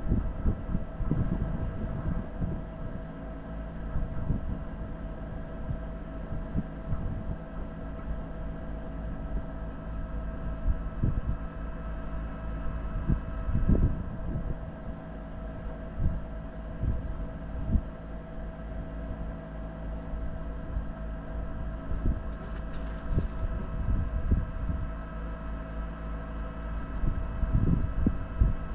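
4x4 vehicle driving over a rough off-road track: a steady engine drone with frequent irregular low thumps and knocks.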